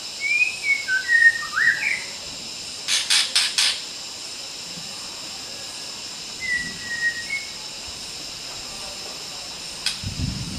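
White-rumped shama (murai batu) singing short phrases of quick, gliding whistled notes, with a run of four rapid harsh rasps about three seconds in. A steady high-pitched insect drone continues underneath.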